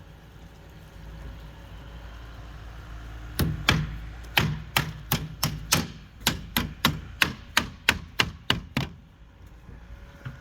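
Hammer blows during bridge railing work: a run of about sixteen sharp strikes at roughly three a second, starting about three seconds in and stopping about nine seconds in.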